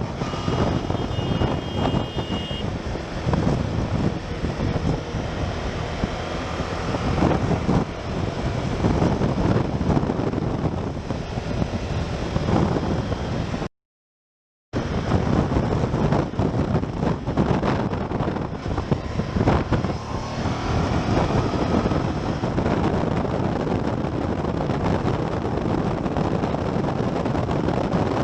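Motorcycle riding in traffic, heard through a helmet-mounted camera: heavy wind rush on the microphone over the engine, with the engine's pitch rising a couple of times. About halfway through the sound cuts out completely for about a second.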